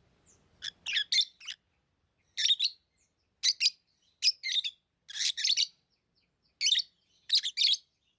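Pet lovebirds chirping: short, shrill, high-pitched chirps in quick clusters, coming about once a second.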